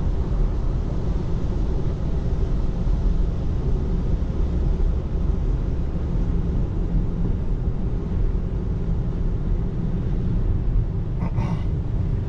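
Steady low rumble of tyre and road noise inside a 2024 Tesla Model 3's cabin on wet pavement, with no engine sound from the electric drive.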